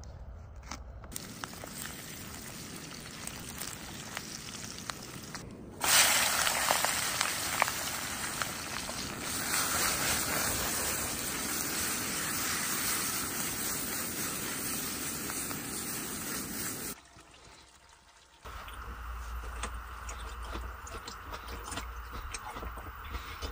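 Food dropped into hot oil in a pan, starting with a sudden loud sizzle about six seconds in that runs on as a steady frying hiss and cuts off abruptly near the end.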